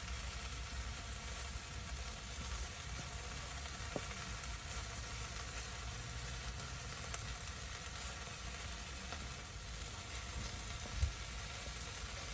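Meat sizzling steadily in a hot pan, a constant frying hiss with a few small pops.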